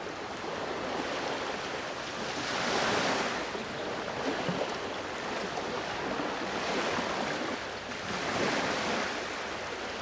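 Sea waves washing onto the shore at Enoshima, the surf swelling and receding in surges every two to three seconds.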